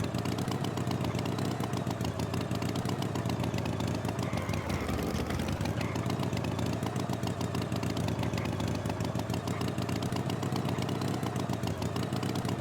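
Tractor engine running steadily, its pitch wavering gently up and down.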